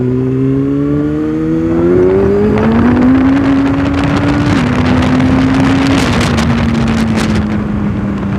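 Kawasaki ZX-6R inline-four engine under acceleration, its pitch rising for about three seconds, then holding and easing down in two small steps. Wind rushes over the microphone, building as speed rises.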